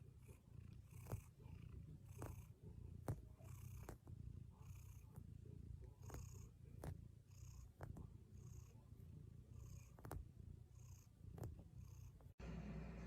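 Domestic cat purring close to the microphone: a low, continuous rumble that swells and eases with each breath, a little under a second apart. It stops abruptly near the end.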